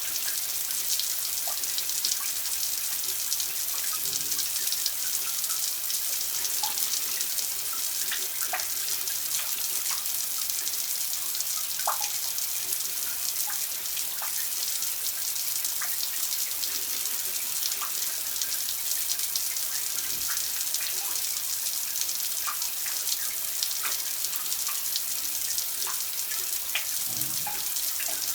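Water running steadily from a tap, a continuous hiss with frequent small drips and plinks scattered through it.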